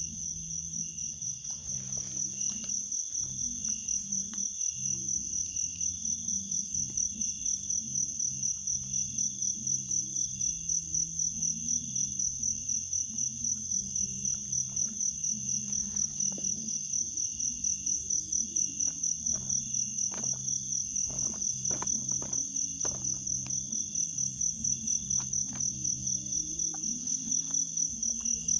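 Crickets chirping steadily, a high pulsing chirp about four times a second. Scattered light clicks and rustles come through, mostly in the second half, over a low drone.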